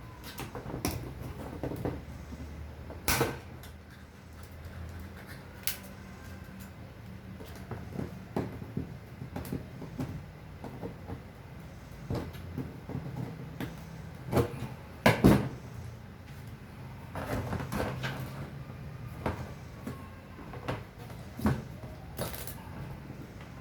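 Irregular knocks and clatters of hard objects being handled, the loudest about 15 seconds in, over a steady low hum.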